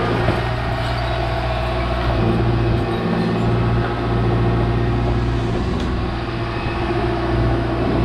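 Volvo ECR 145 DL excavator's diesel engine running steadily under work.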